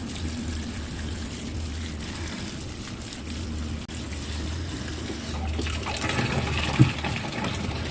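Water running into a Toshiba 12 kg manual washing machine for a rinse, over a steady low hum. The rush of water gets louder about six seconds in.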